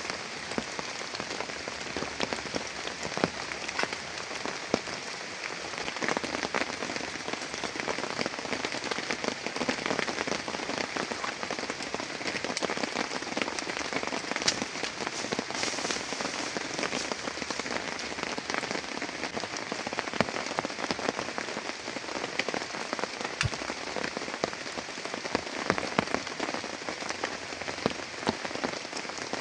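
Heavy rain falling steadily, with many sharp individual drop hits on a nearby surface.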